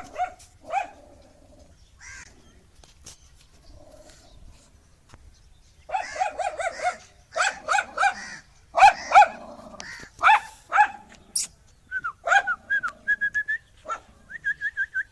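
A dog barking aggressively: a few single barks, then rapid runs of barks several a second, and near the end a string of quick high-pitched yips.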